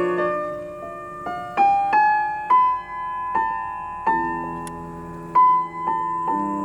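Slow piano music: single notes struck one after another over lower held notes, each left to ring and fade.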